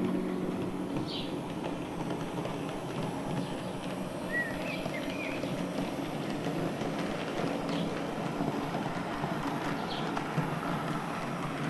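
H0-scale model train running on the layout's track: a steady rattling rumble with a few brief high chirps now and then.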